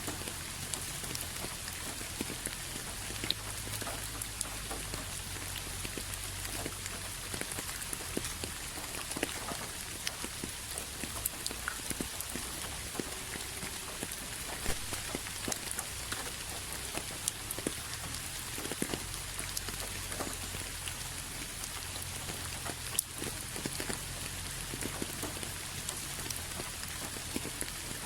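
Steady rain falling, with many individual drops heard as small, sharp ticks on a surface over an even hiss, and a low, steady rumble underneath.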